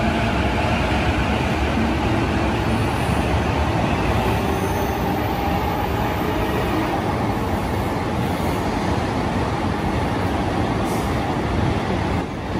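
Keiyo Line E233-5000 series electric commuter train running along the platform: a steady rumble of wheels and running gear, echoing in the underground station.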